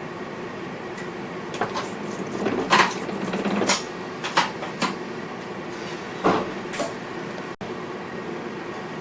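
Irregular clicks and knocks over the steady running hum in the cab of a moving VIRM double-deck electric train, loudest about three and six seconds in.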